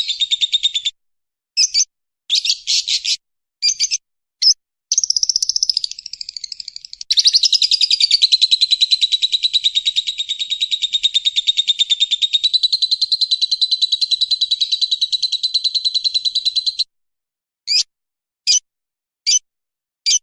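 Lovebird giving its long 'ngekek' chattering song: very fast runs of repeated high notes. A few short bursts lead into one long unbroken run of about ten seconds, followed by single chirps about a second apart near the end.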